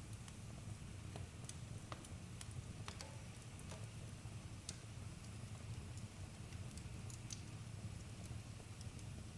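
Campfire crackling: scattered sharp pops and ticks of burning wood over a low, steady rumble of the flames.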